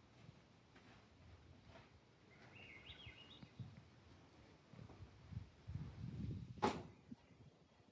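Quiet outdoor ambience with a few short bird chirps about three seconds in. Later come some low thumps and a single sharp click.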